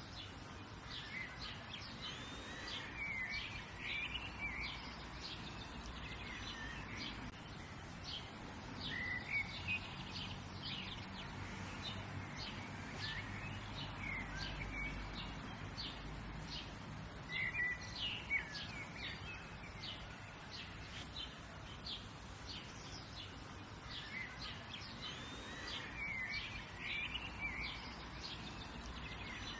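Outdoor birdsong ambience: several small birds chirping with short, high notes, one of them repeating a curling song phrase every several seconds. Underneath runs a steady low background rumble.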